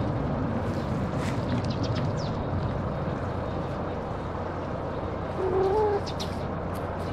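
Outdoor ambience: a steady background hiss with scattered short bird chirps, and one short, low cooing bird call about five and a half seconds in.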